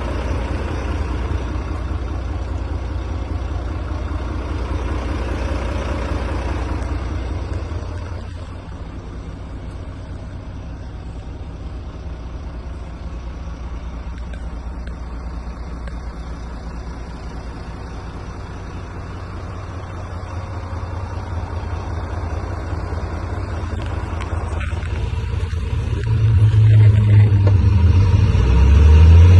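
Volvo FM 300 truck's six-cylinder diesel engine running, a steady low rumble that gets louder and heavier near the end.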